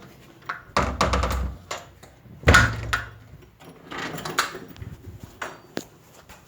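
A series of knocks and thumps like a door or something being bumped: a heavy thump about a second in, the loudest knock about two and a half seconds in, then lighter knocks and clicks.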